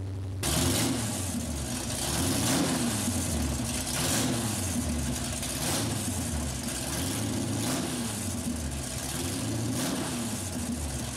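1967 Camaro SS's 396 big-block V8 idling, with the revs rising and falling in short surges every couple of seconds.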